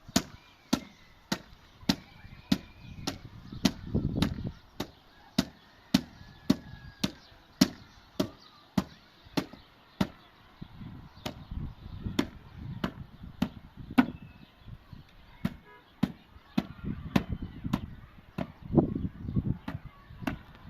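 A hand tool striking wood in a steady rhythm, a sharp blow about every 0.6 seconds, with duller low thumps between the strikes.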